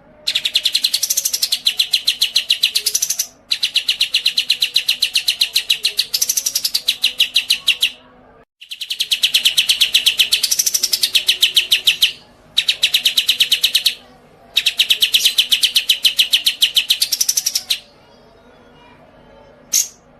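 A songbird singing long, very fast, high-pitched trills in five bursts of one to four seconds each, separated by short pauses.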